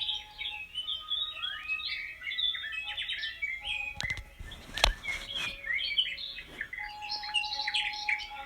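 Several small songbirds chirping and twittering over one another in a busy chorus, with a few sharp clicks about halfway through.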